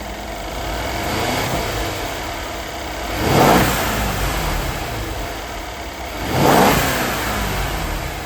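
Mercedes-Benz SL550's twin-turbo V8 idling, with a slight rise in revs about a second in, then two short throttle blips about three seconds apart, each revving up and dropping back to idle.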